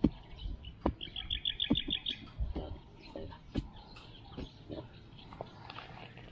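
A bird calling a quick run of about eight chirps about a second in, among scattered knocks and thumps.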